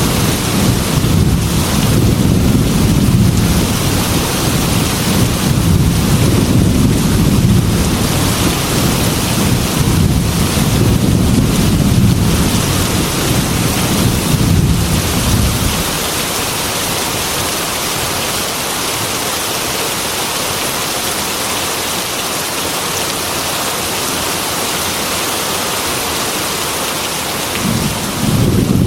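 Heavy rain beating on a glass window with a steady hiss, under a deep rumble of thunder that fades out about halfway through, leaving rain alone until the rumble swells again near the end.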